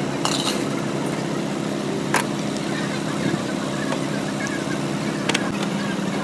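A steady low mechanical hum with three sharp clicks, the loudest about two seconds in.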